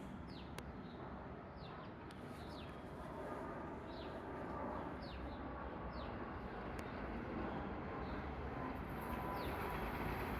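Scattered short bird chirps, each a quick falling note, a dozen or so spread across several seconds. Beneath them a faint low rumble slowly grows louder: a train approaching.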